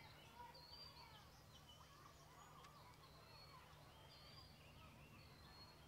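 Near silence outdoors with faint birdsong: scattered short chirps and whistles from small birds over a low steady hum.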